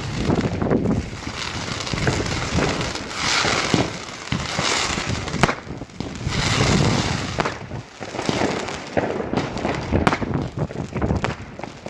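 Fireworks going off: a dense run of bangs and crackling, with longer hissing stretches about three and six seconds in, and sharp single bangs near the end.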